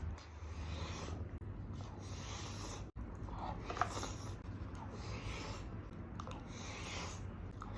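Close-miked eating of chicken and rice: soft chewing and rubbing sounds, with one sharper click about four seconds in.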